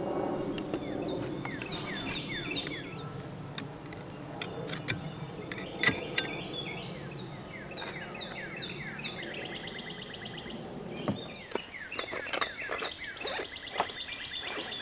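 Songbirds singing, with repeated short falling chirps and fast trills, over scattered sharp clicks and knocks of something being worked by hand. A low steady rumble underneath drops away about eleven seconds in.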